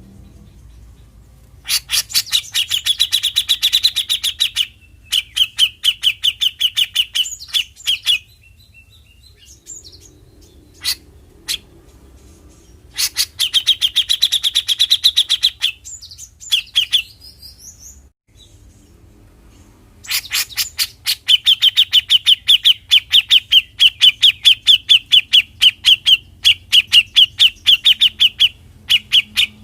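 Grey-cheeked bulbul (cucak jenggot) giving its 'besetan' call: a rapid rattling string of sharp, harsh notes, several a second, in several bouts, the longest running through the last third.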